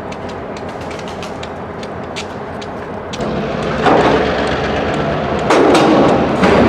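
Freight cars being shoved slowly through a rail yard: steady wheel-on-rail rumble with many sharp clicks, getting louder about three seconds in, with loud surges of metallic noise about 4 and 5.5 seconds in as the drawbars press in.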